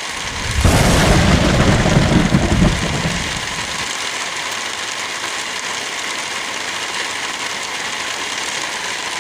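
Wind blowing through forest trees with light rain, a steady hiss throughout. About half a second in, a strong gust comes in as a low rumble lasting about three seconds, then dies back to the steady hiss.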